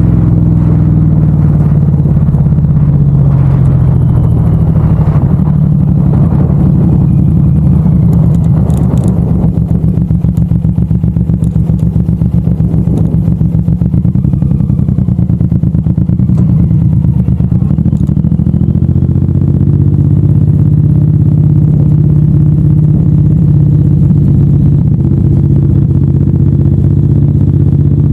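Suzuki M109R's V-twin engine running on the road. About a third of the way in the note drops and turns to a slower pulsing, as when rolling off the throttle, then it rises back to a steady run about two-thirds of the way in.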